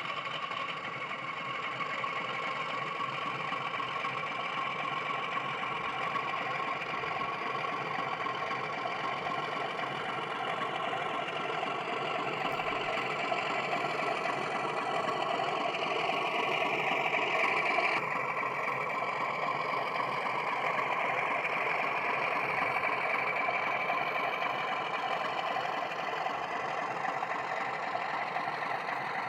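Accurascale OO-gauge Class 31 model locomotive running with its sound decoder playing diesel engine sound through the on-board speaker, along with the model's motor and wheels on the track. A little past halfway the engine sound builds and rises in pitch, then drops back suddenly and runs on steadily.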